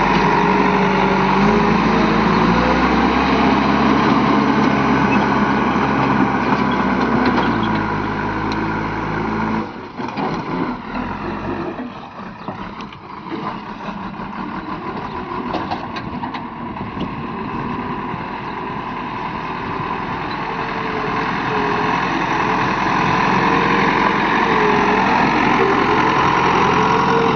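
Heavy diesel vehicle engine running steadily, with its pitch stepping up and down. About ten seconds in it drops abruptly to a quieter, rougher sound, then grows louder again toward the end.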